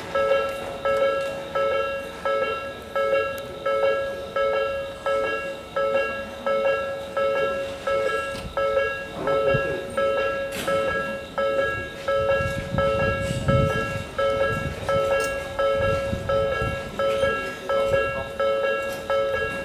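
Railway level-crossing warning alarm ringing, a repeating electronic two-tone ding at about three strikes every two seconds. A low train rumble rises under it in the second half.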